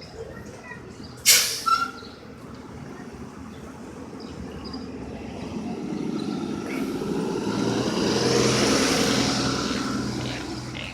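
A city bus's air brakes let off a sharp hiss about a second in, then the bus's engine runs as it pulls away, swelling to its loudest about eight seconds in and fading near the end.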